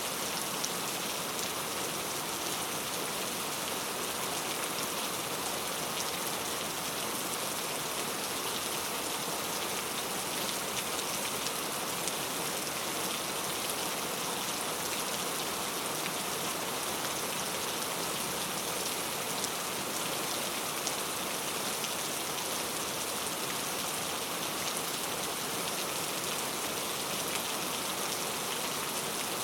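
Steady rainfall: an even hiss of rain with many fine drop ticks, unchanging throughout.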